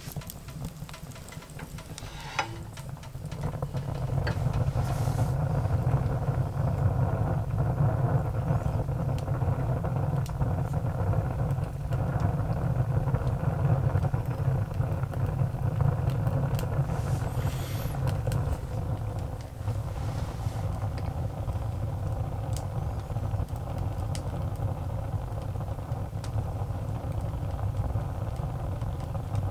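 Wood fire burning, with scattered sharp crackles over a steady low rumble that comes in and grows louder about three seconds in.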